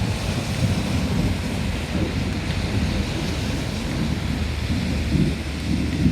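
Thunderstorm downpour: heavy rain hissing steadily over a continuous, uneven low rumble.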